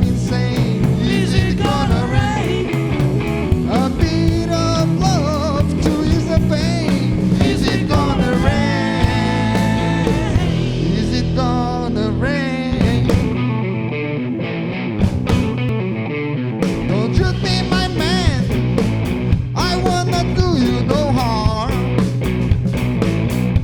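Live rock band playing an instrumental passage: a lead line with sliding, bending notes over bass and drums. About 13 seconds in, the cymbals and deep bass drop out for a few seconds before the full band comes back.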